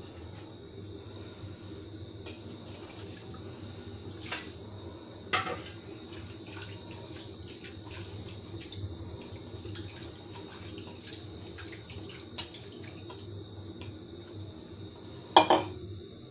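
Steady watery kitchen noise of water running or bubbling, with a few sharp clinks of metal utensils or pots. The loudest clink comes near the end.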